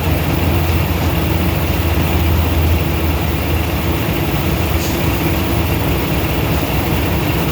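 Semi-truck diesel engine idling, a steady low hum.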